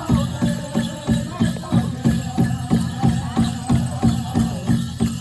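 Powwow drum group singing: a steady beat on the big drum, about three strikes a second, under men's voices carrying a high, wavering melody.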